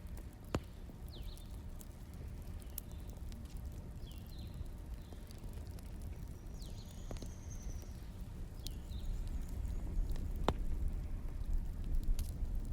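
Wood fire burning: a low steady rumble with scattered sharp crackles and pops, and short high chirps every second or two.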